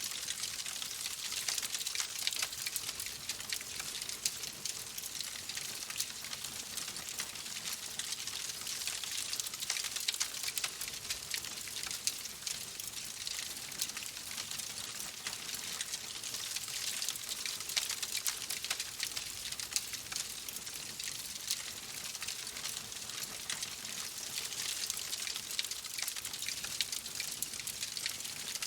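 Wood fire burning in a fireplace, crackling steadily with a dense run of small pops and snaps over a soft hiss.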